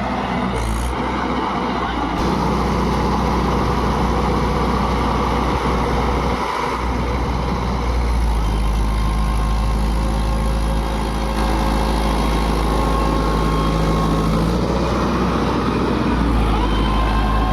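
A Mahindra tractor's diesel engine runs steadily and loud, its note changing several times as the engine speed shifts.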